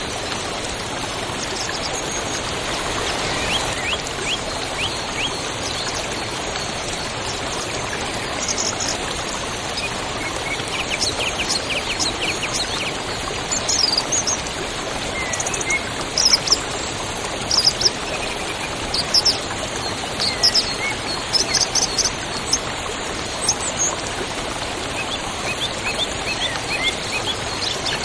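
A river or stream running steadily, with songbirds calling over it: short repeated chirps and trills throughout, louder and busier from about halfway on.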